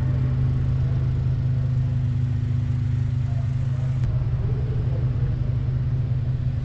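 A car engine idling steadily, a low even hum; a higher tone within it drops out about four seconds in.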